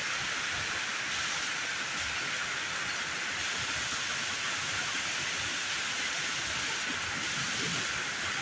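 Heavy thunderstorm rain pouring down, a steady hiss that holds even throughout.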